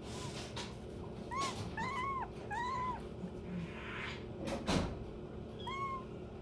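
Young kittens mewing: four short, high, arching mews. A sharp knock near the end of the second half is the loudest sound.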